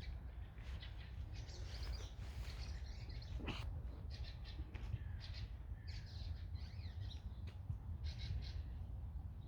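Birds calling and chirping, short high calls repeating one after another, over a steady low rumble.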